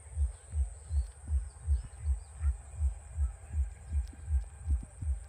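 A low, steady thumping beat, about two and a half thumps a second, under a thin high steady whine, with a few faint bird chirps.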